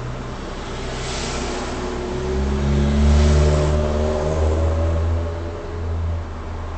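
A motor vehicle's engine with a steady low rumble that rises in pitch and loudness about two seconds in, peaks, then eases off again, as when accelerating.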